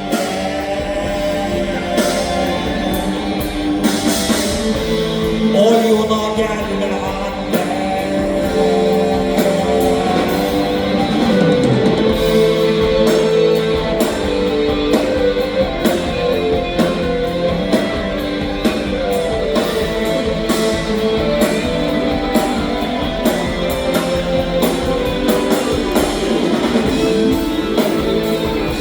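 Instrumental break of a Turkish rock song: guitar over bass and drum kit, with a few sliding, bent notes in the lead line.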